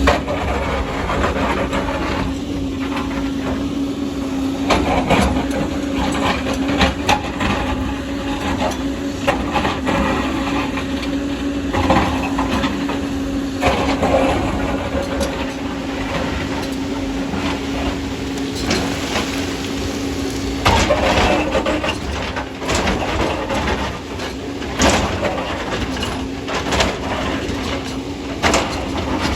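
Excavator working, its diesel engine running steadily under load, with repeated clanks and knocks from the bucket striking rock and soil.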